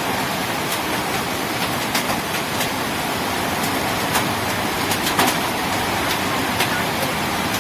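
Heavy rain falling: a steady hiss with scattered sharp splats of large drops striking nearby surfaces.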